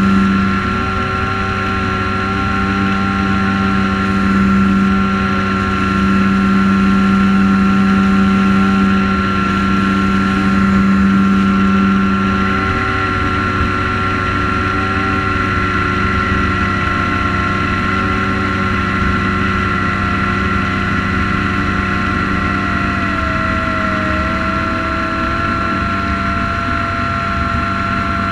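Multirotor drone's electric motors and propellers whining steadily in hover or cruise, heard close from the onboard camera, with small shifts in pitch as the drone manoeuvres.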